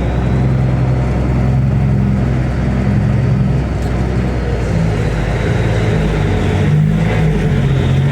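Combine's diesel engine running steadily.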